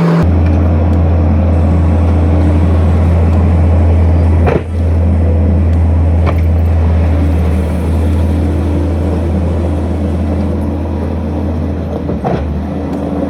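Skid steer engine running at a steady low drone, with three sharp knocks or clanks scattered through.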